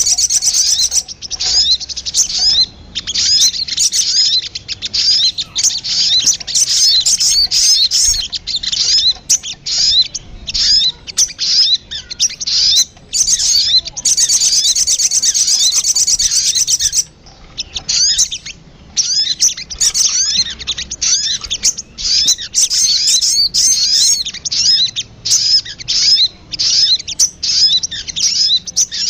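Sogon bird (little spiderhunter) calling: a dense run of rapid, high-pitched chirps. Fast continuous trills come near the start and again about halfway through.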